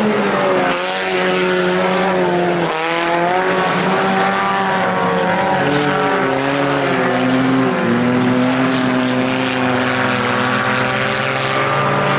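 Four-cylinder engines of a pack of IMCA Sport Compact race cars running laps, several engine notes overlapping and rising and falling in pitch as the cars ease off and accelerate.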